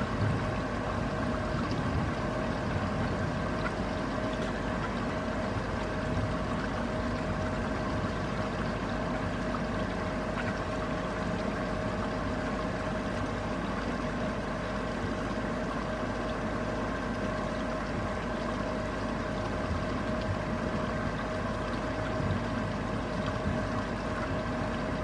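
Steady rain falling during a thunderstorm, an even hiss with no thunderclaps, with a constant hum of a few steady tones underneath.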